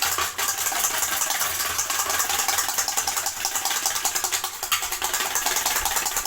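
Kitchen mixer grinder running at speed with a steady rattling whir, cutting off suddenly at the end.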